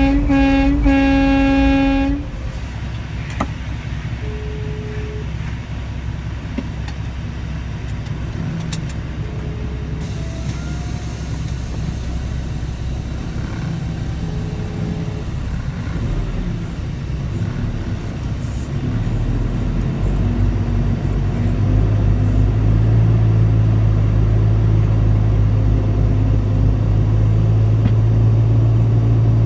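Semi-truck horn blown in one steady blast for about two seconds, then the truck's engine running under a continuous low cab rumble while driving. A few short faint tones sound in between, and a steady low engine drone grows louder near the end.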